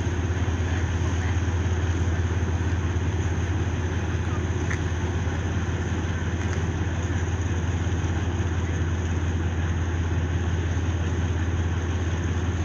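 Steady low drone of a ship's diesel engine running at a constant low speed, with no change in pitch or level.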